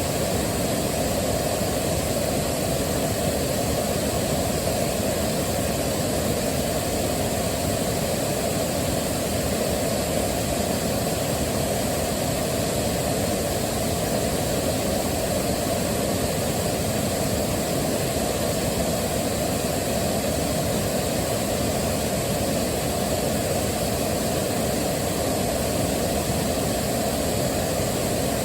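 Waterfall: a steady rush of falling water, deep and even, with no changes.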